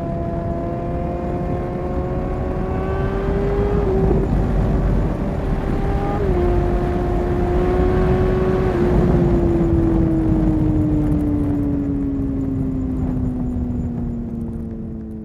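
Suzuki GSX-R 750 inline-four with a Yoshimura exhaust pulling through the gears. The engine note climbs with short drops at upshifts about four and six seconds in, then falls steadily as the throttle is rolled off and the bike slows.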